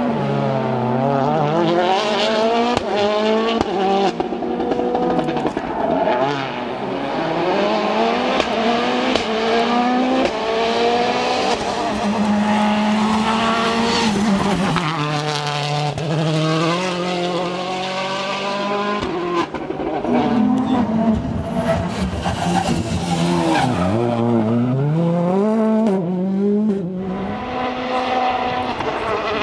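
World Rally Car turbocharged engines revving hard and climbing through the gears at full speed, with repeated sharp drops in pitch at each upshift and on lifting for corners. There is some tyre noise as the cars pass.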